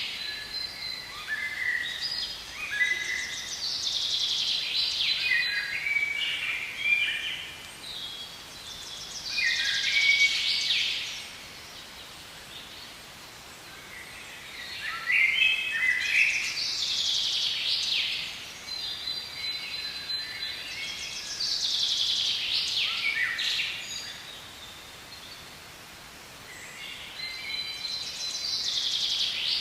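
Songbird singing, repeating high-pitched song phrases of a few seconds each with short pauses between them, over a faint steady outdoor background.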